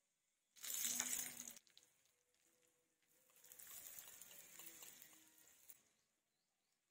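Food frying in a tiny pan: a short, loud sizzling hiss about a second in, then a longer, quieter sizzle from about three to six seconds in.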